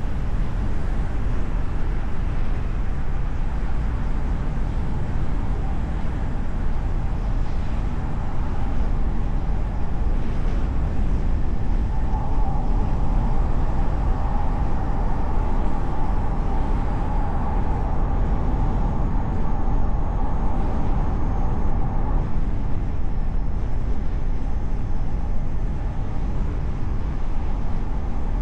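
Steady road and engine noise of a car driving through city traffic, heard from a microphone on the car's hood, with a deep rumble throughout. A steady higher hum grows louder from a little under halfway through and falls back about three quarters of the way in.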